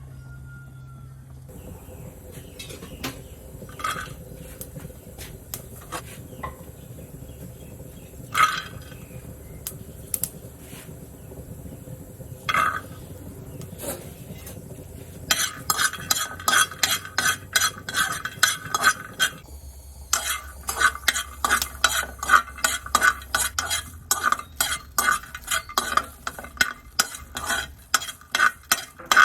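Utensils clinking against a bowl: scattered single knocks at first, then two long runs of fast, even ringing strikes, several a second, as food is stirred or pounded.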